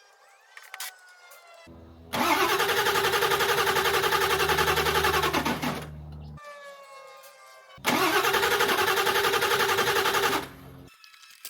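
Starter cranking a Ford 7.3 L Power Stroke V8 diesel in two attempts, about four seconds and then about two and a half seconds, with a quick even pulse from the compression strokes, and no firing. The sitting truck won't start because its batteries and jump packs are running out of power.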